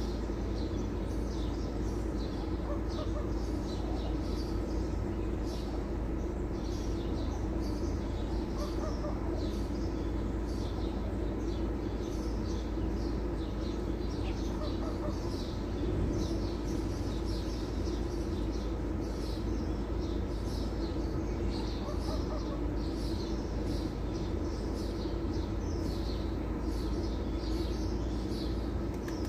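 Small birds chirping continuously in many short, high calls, over a steady low machine hum.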